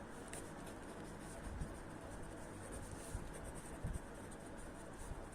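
Faint scratching of someone writing by hand, with a few light taps.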